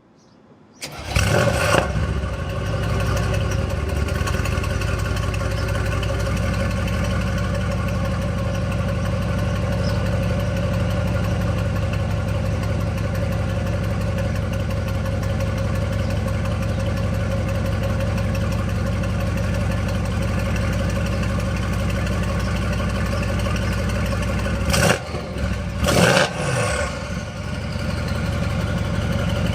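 Mercedes-AMG C63 S's 4.0-litre twin-turbo V8 with aftermarket MBH downpipes, starting with a sudden burst about a second in and then settling into a steady idle. Two brief louder sounds come near the end.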